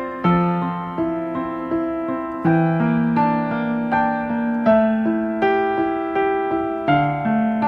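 Background music: a gentle piano melody, single notes struck at an even pace and left to ring.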